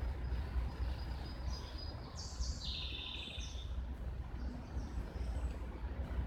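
Wild birds calling: a few short high chirps and one buzzy call around the middle, over a steady low rumble.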